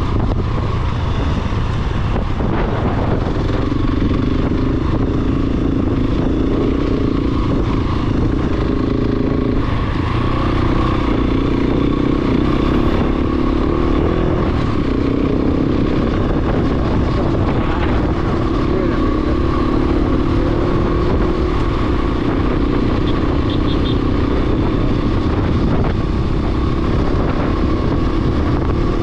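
Large single-cylinder dual-sport motorcycle engine running under way, its pitch shifting up and down every few seconds.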